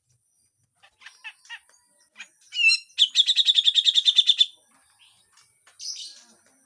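Grey-cheeked bulbul (cucak jenggot) calling harshly. A few short chips come first, then a rapid rattling burst of about twelve notes a second lasting a second and a half, the 'besetan' rattle, and a rough call near the end.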